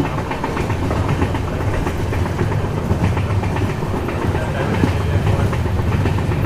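Passenger train running along the line, heard from aboard the coach: a steady rumble of the running gear with the rhythmic clickety-clack of wheels over the rails.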